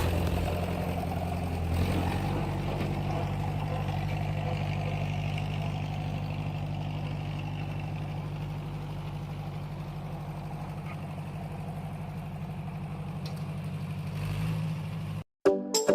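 Small engine of a model mini tractor running steadily with a rapid even beat. It cuts off suddenly near the end.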